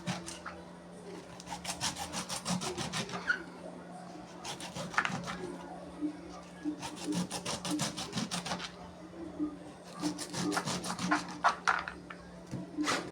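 A kitchen knife scraping kernels off a corn cob: quick rasping strokes, several a second, in short runs with brief pauses between.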